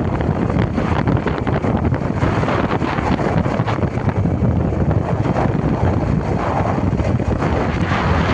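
Wind buffeting the microphone: a steady, loud rushing noise, heaviest in the low end and fluttering rapidly.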